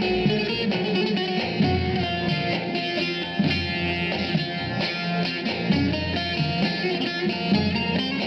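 Instrumental break of a Turkish Aegean folk tune: an amplified bağlama (saz) plays a quick run of plucked notes over electronic keyboard (org) accompaniment with a steady bass line.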